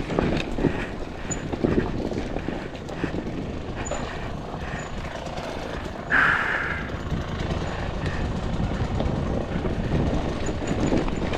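Two-stroke enduro dirt bike engine running at low revs with rough, irregular mechanical noise, with one brief louder, higher burst about six seconds in.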